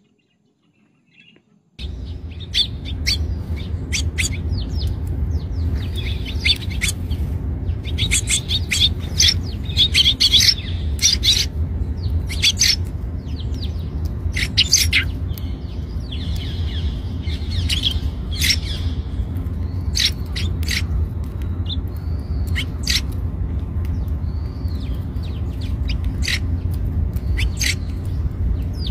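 Eurasian tree sparrow chirping: many short, sharp chirps at an irregular pace, some in quick runs, starting about two seconds in, over a steady low rumble.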